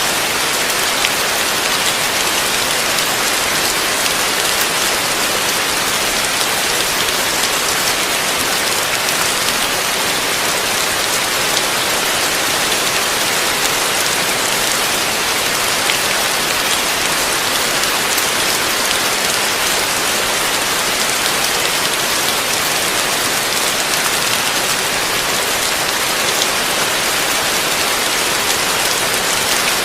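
Heavy rain falling steadily, a dense, even hiss of drops striking a surface, with no letup.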